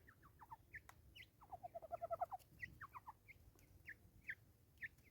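Birds calling faintly: scattered short, downward chirps, with a quick run of about eight notes about two seconds in.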